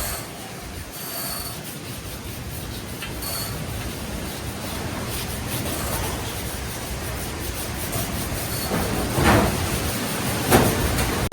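Steady mechanical rumbling noise that slowly grows louder, with two brief louder rasps near the end.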